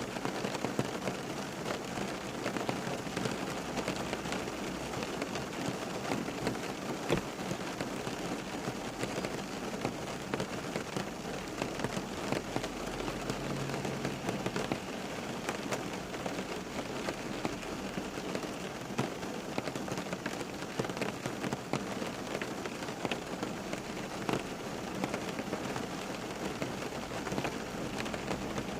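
Steady rain falling, a continuous hiss with many close drops pattering on a surface.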